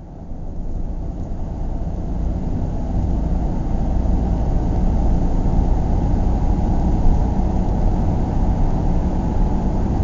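A car driving: steady low engine and road rumble, fading in over the first couple of seconds.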